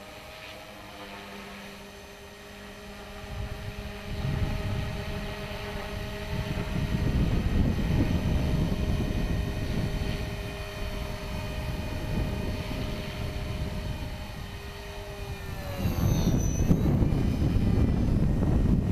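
HobbyKing HK450 Pro electric RC helicopter in flight, its motor and rotors giving a steady whine of several tones, with strong wind buffeting the microphone from a few seconds in. Near the end the whine shifts in pitch as the gusts get heavier.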